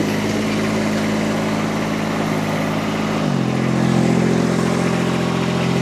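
Rippa RS06 mini skid steer's Kubota D1105 three-cylinder diesel running steadily, then throttled up to a higher steady speed a little over three seconds in.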